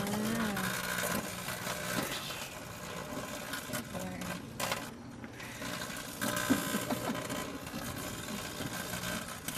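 Microwave oven running with a steady electrical hum and buzz, with crackling from a light bulb's filament being microwaved inside.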